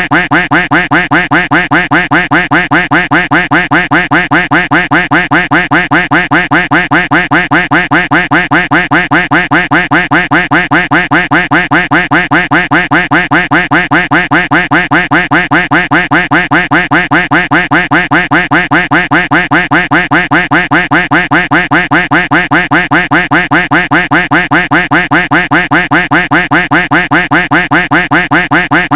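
Duck quack sound effect looped over and over in a fast, even stream of about four quacks a second, never changing.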